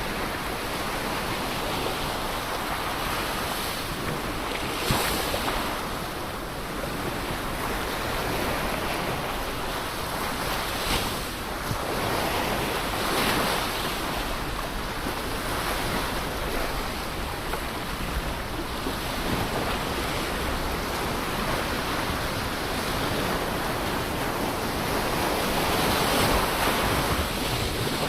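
Ocean waves breaking and washing on a shore, a continuous rushing surf that swells and eases every few seconds, with wind noise on the microphone.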